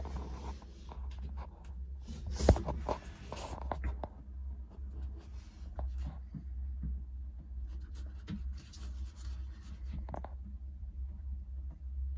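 Scraping, rustling and clicking handling sounds, with one sharp click about two and a half seconds in, over a steady low rumble.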